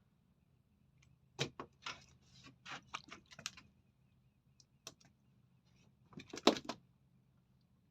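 A run of light clicks and knocks, like gear being handled, then a lone click and a louder cluster of knocks near the end.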